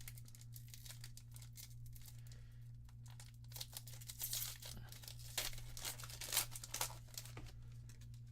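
Foil booster-pack wrapper crinkling and being torn open by hand, in a run of short crackles that grows louder and denser in the second half, over a steady low electrical hum.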